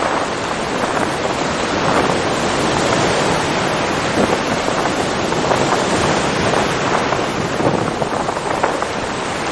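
Ocean waves washing ashore in a steady, continuous surf noise, with wind.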